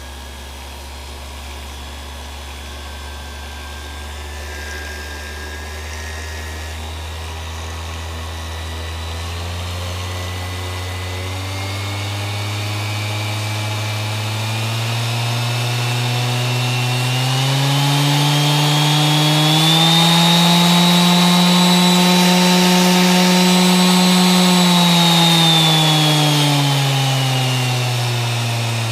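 Bosch ROS20VSK corded random orbit sander running, its motor whine rising in steps as the variable-speed setting is turned up from speed 1, holding at its highest pitch for several seconds, then falling back down near the end.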